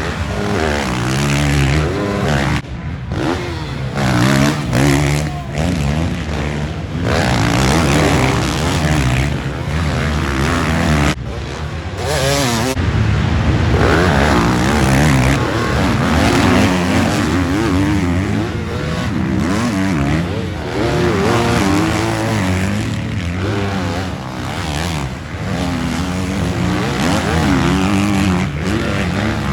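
Several motocross bikes racing, their engines overlapping and revving up and down continuously as they accelerate and back off around the track.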